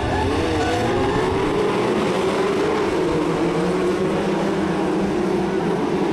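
Several Brisca F2 stock cars' engines running hard around the track together, their pitch wavering up and down as the drivers lift and accelerate.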